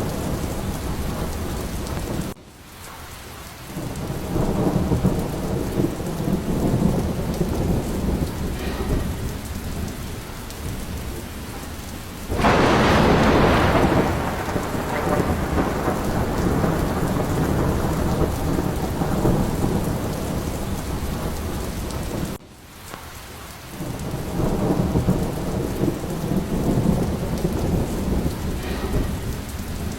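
Steady heavy rain with low rumbles of rolling thunder. About twelve seconds in, a louder thunderclap crashes and fades away over a couple of seconds. Twice the sound drops off abruptly and then swells back.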